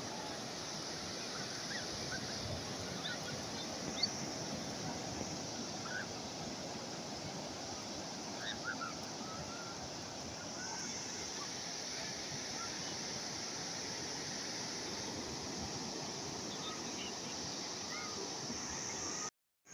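Steady wash of calm sea waves, with many short bird calls scattered over it. The sound cuts out for a moment near the end.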